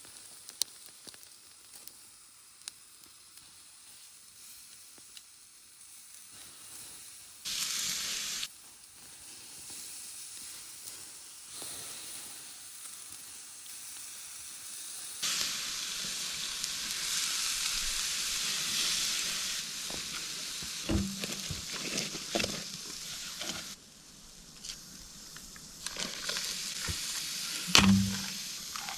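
Food sizzling as it fries in a pan over an open fire, the sizzle growing louder about halfway through. A few sharp knocks sound in the second half, the loudest near the end.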